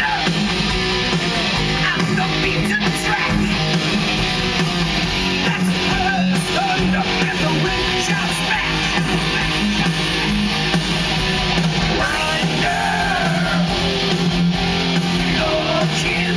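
Heavy metal band playing live, with electric guitars to the fore, loud and steady.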